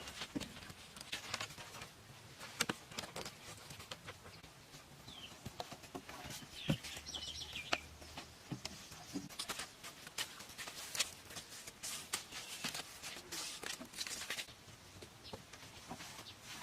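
Irregular sharp taps and knocks, with a few short bird chirps about a third of the way in.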